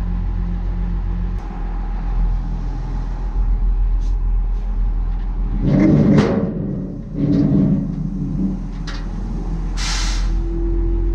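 Heavy-equipment diesel engine running steadily, with two louder stretches of clunking and rattling around the middle, a few sharp clicks and a short hiss near the end.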